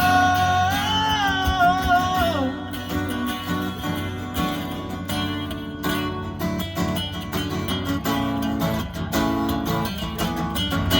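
Live country band playing: a long held note slides down and ends about two seconds in, then a guitar-led instrumental passage with a steady beat.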